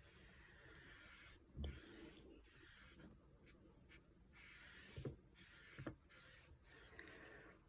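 Faint brushing and rubbing of a paintbrush on watercolour paper in short strokes, with a few soft taps in between.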